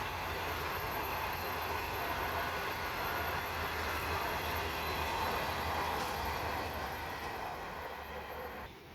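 A train passing: a steady noise with a low hum underneath, which drops away suddenly near the end.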